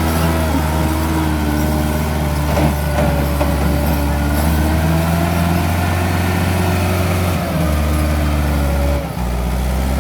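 Massey Ferguson 375 tractor's diesel engine running steadily, with a thin whine above the engine note. The engine note shifts down a step about three-quarters of the way in and dips briefly near the end.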